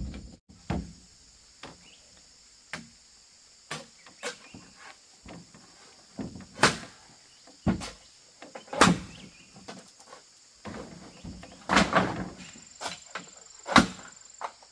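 Scattered sharp knocks and taps, about a dozen at uneven intervals, some louder than others. A steady high hiss runs underneath, with a thin high tone near the end.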